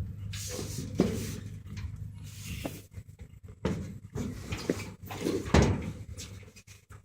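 Irregular clunks, knocks and scraping of a stiff shop door being worked open, the loudest knocks about a second in and again near the end.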